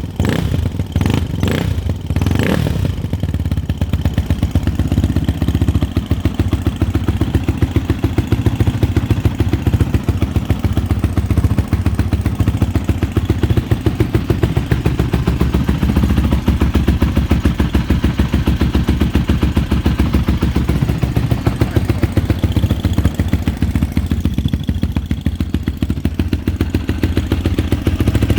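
Freshly rebuilt Yamaha Raptor 450R quad's single-cylinder four-stroke engine idling steadily, with a few sharp clicks in the first couple of seconds.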